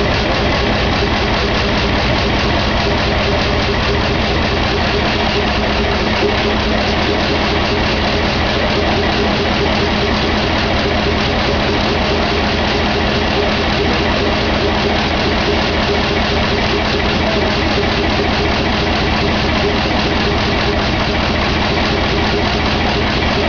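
Stationary engine running steadily at an even speed.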